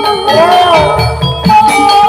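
Loud Javanese gamelan music of a barongan troupe: ringing metallophone tones over low drum strokes, with one melodic line bending up and down in pitch about half a second in.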